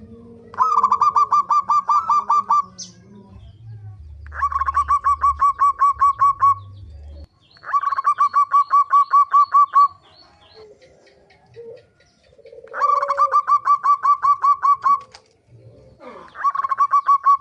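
Zebra dove (perkutut) calling in repeated phrases, each a quick run of about five notes a second lasting around two seconds, with short pauses between; five phrases, the last still going at the end.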